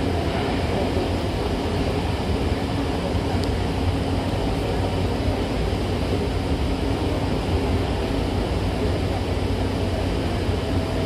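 Hankyu Takarazuka Line commuter train running at speed, heard from inside the car by the doors: a steady, deep noise of wheels on rails and car body.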